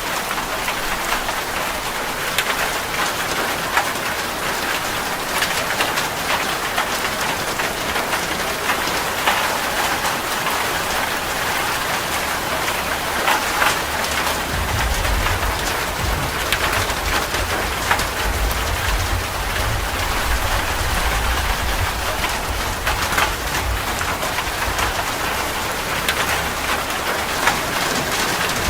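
Steady rain falling, with many individual drop impacts heard as sharp ticks over the even hiss. About halfway through, a low rumble joins underneath and continues.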